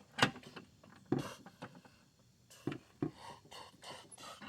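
Scattered knocks and scrapes of hand work as a small engine is bolted onto a Toro mower deck, with bolts being fitted and screwed in; a quicker run of short scrapes comes in the last second and a half.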